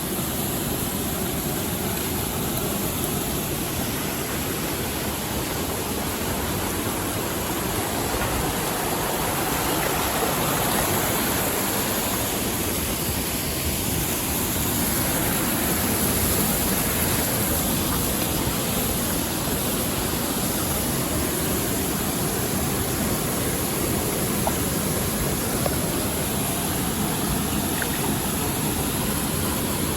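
Mountain stream rushing steadily over rocks, an even continuous water noise.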